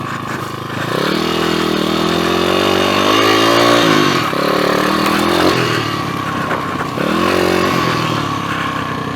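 PitPro 140cc four-stroke pit bike engine under way, revs rising from about a second in, falling off just after four seconds, then rising again around seven seconds as the throttle is worked.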